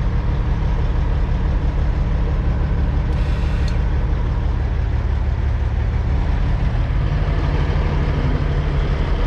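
Semi-truck diesel engine running steadily at low speed while the rig backs up, heard from the cab. A short hiss cuts in about three seconds in, and the engine note shifts slightly higher near seven seconds.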